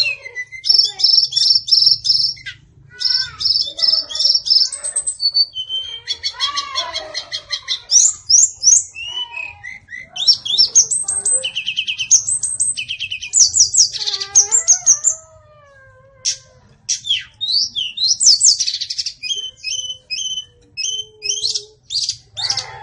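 White-rumped shama singing a long, varied song of fast trills, rattling chatters and clear whistled phrases, with a short pause about two thirds of the way through.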